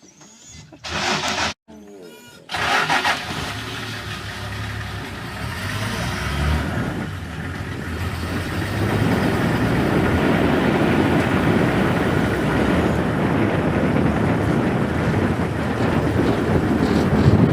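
A vehicle engine starts with a short crank and then runs with a steady low hum. The engine noise, with wind on the microphone, grows louder as the vehicle gets moving.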